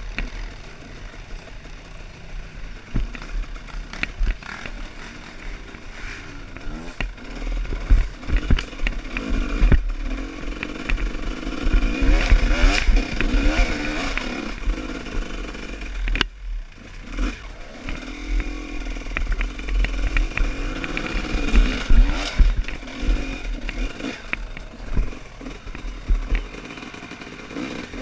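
Off-road trail motorcycle engine revving up and down in repeated surges, with knocks and clatter from the bike; the sound breaks off briefly about sixteen seconds in.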